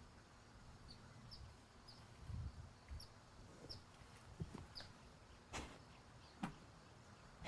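Quiet background with faint bird chirps, short and high, scattered through the first few seconds. Two soft clicks or rustles come later on.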